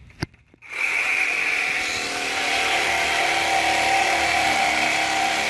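A power saw switches on with a click and runs steadily, cutting into the steel exhaust pipe of a 1994 Chevy S10 pickup.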